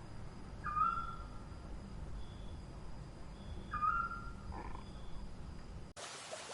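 Two short whistled animal calls about three seconds apart, over forest ambience with a steady high insect drone and faint repeated high chirps. Near the end the sound cuts abruptly to running water.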